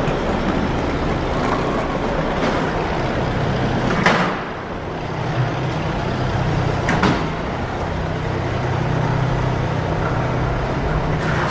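City street traffic: vehicle engines running steadily with a low hum, and two sharp knocks, one about four seconds in and another about three seconds later.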